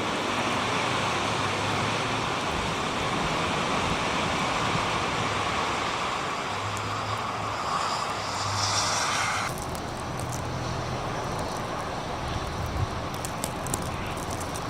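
Strong storm wind blowing, swelling into a hissing gust about two-thirds of the way through and then dropping off suddenly; a few sharp ticks come near the end.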